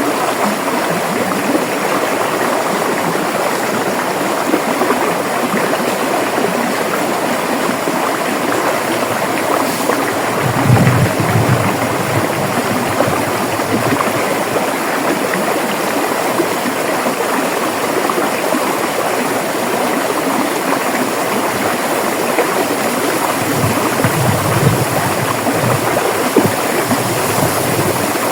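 River water flowing, a steady, continuous rush, with two brief deeper rumbles, about a third of the way in and near the end.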